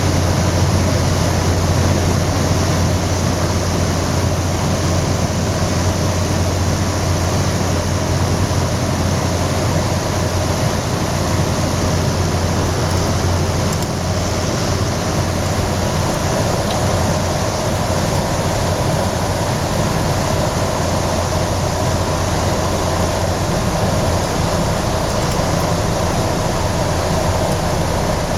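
Propeller airplane engines running in a steady, loud drone, heard from inside the cabin during the approach, with a deep hum under a broad rushing noise.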